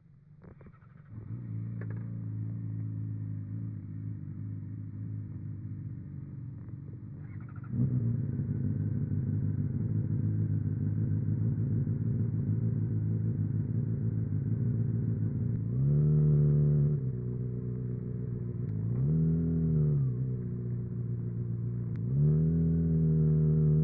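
Honda CBR600RR inline-four motorcycle engine with a MIVV Suono aftermarket exhaust idling, getting louder about eight seconds in, then revved three times in short throttle blips, the last held up near the end.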